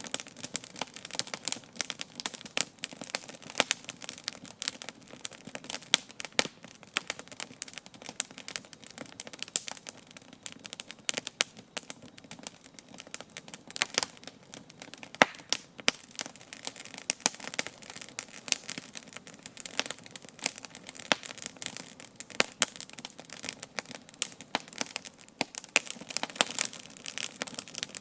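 Wood campfire burning with constant irregular crackling and sharp pops over a low hiss.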